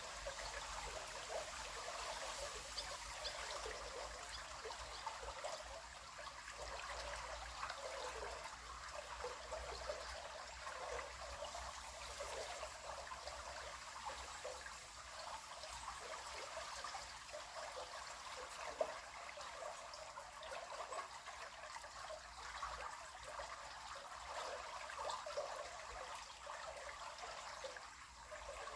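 River water flowing and trickling over stones, a steady babbling with small splashy flickers.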